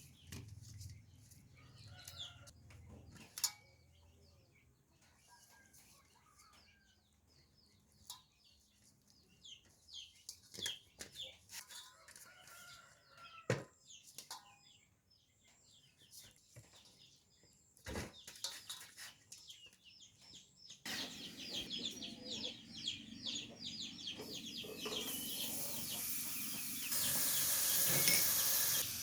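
Chickens clucking faintly among scattered clicks and knocks, then food starts sizzling in a hot pan about twenty seconds in, the crackling hiss growing louder near the end.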